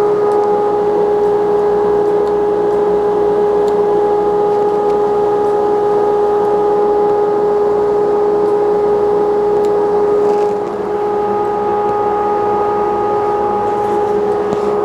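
Powder coating setup running while the brackets are sprayed: a steady mechanical drone with a hiss of air, easing briefly about ten seconds in.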